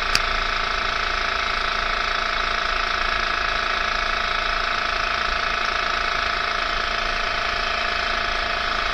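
A small motor running steadily, with a steady whine of several tones over a hiss, and a single click just after the start.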